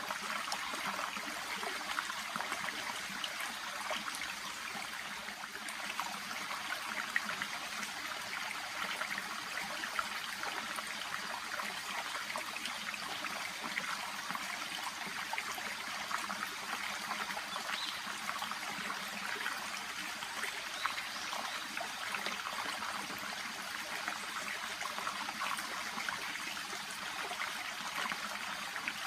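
A shallow brook murmuring and trickling steadily, an even rush of water with fine splashing flickers.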